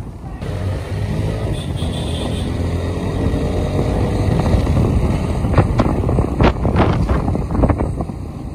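Motorcycle engines running as the bikes ride off, growing louder over the first few seconds, with several sharp clicks about two-thirds of the way through.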